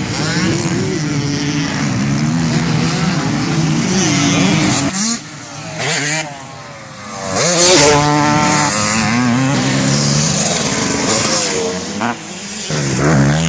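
Motocross bike engine revving hard, its pitch climbing and dropping with each shift and throttle change. The engine backs off to a lower level about five seconds in, then rises sharply to full throttle about two seconds later.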